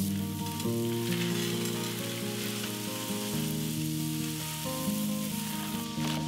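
Butter sizzling in a cast iron skillet with chopped asparagus: a steady frying hiss, with soft background music underneath.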